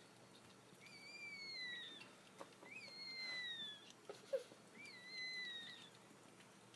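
Newborn Yorkshire terrier puppy squealing: three high, thin cries of about a second each, every one falling slightly in pitch, about two seconds apart. A short sharp tap just after the second cry is the loudest moment.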